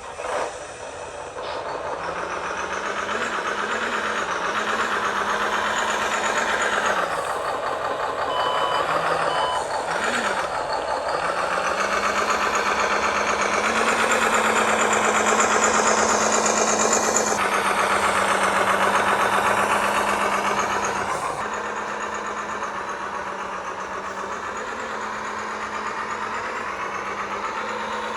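RC construction trucks running, with reversing beeps over a steady engine-like drone from their sound modules. The sound is loudest through the middle and drops a step about two-thirds of the way in.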